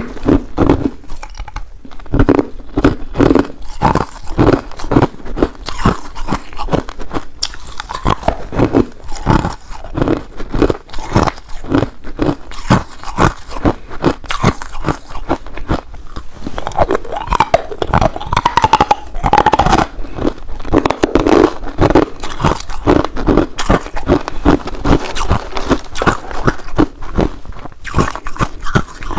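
Ice being bitten and chewed close to the microphone: dense, irregular crunching, several bites a second, with no pause.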